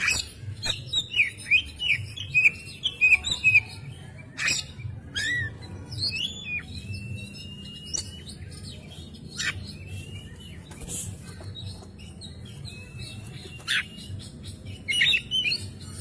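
Oriental magpie-robin (kacer) singing loudly and at length in a varied song of rising and falling whistles. There are quick runs of notes in the first few seconds, a long held whistle in the middle and another fast burst near the end.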